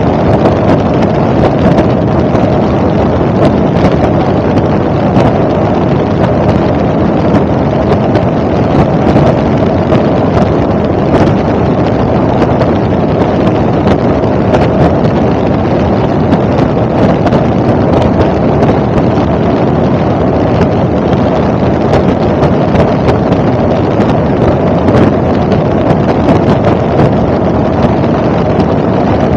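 Helicopter in flight: loud, steady engine and rotor noise, with wind buffeting the microphone.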